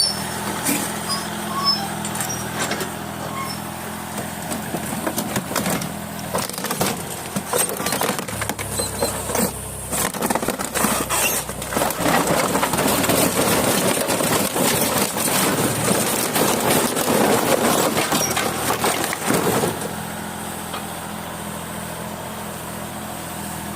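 Excavator diesel engine running steadily while its bucket crushes a refrigerator: repeated crunching, cracking and banging of sheet metal and plastic, heaviest through the middle and dying away near the end, leaving the engine running.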